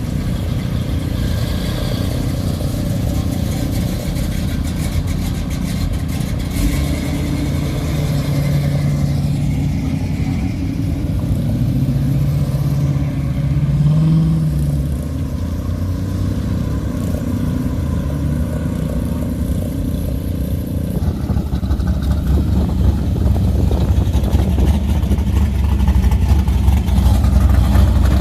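Hot rod and classic car engines running as cars pull away one after another, one engine note climbing as it revs about halfway through. A louder, deeper engine takes over for the last few seconds.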